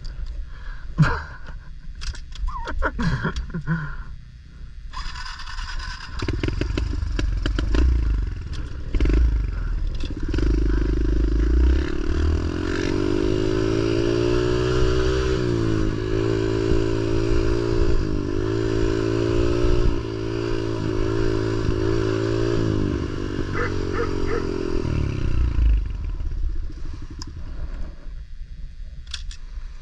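Pit bike engine running and revving up and down repeatedly as it is ridden, with clattering knocks over the first few seconds. The engine fades out near the end.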